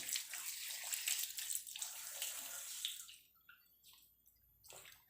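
Water running into a bathtub from a tap or sprayer, cut off about three seconds in, leaving a few drips and one short burst of water near the end.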